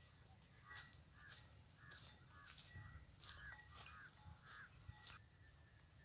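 Faint bird calls: a run of short, repeated calls, about two a second, that stops about five seconds in, over a low rumble.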